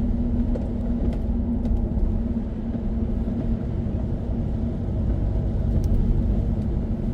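Steady engine and road rumble heard inside a moving car's cabin, with a low hum that fades about halfway through.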